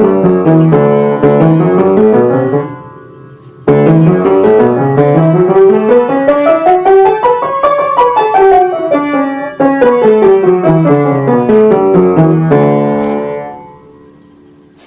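Piano played in stepwise scale runs: a falling run, a brief break about three seconds in, then a long rising run that turns and falls again, the last notes ringing away near the end.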